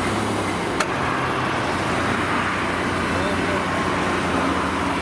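Off-road SUV engine running steadily under a broad rumble of driving noise, with a single sharp click a little under a second in.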